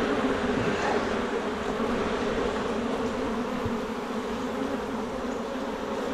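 Honeybees buzzing around an opened hive: a steady, dense hum of many bees.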